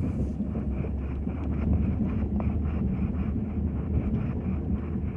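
Ford F-250 pickup running, a steady low rumble that swells up just before and then holds, with a faint rapid ticking at about four a second over it.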